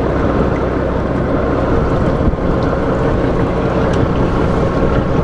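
Large fishing boat's engine running with a steady low hum under a constant wash of noise.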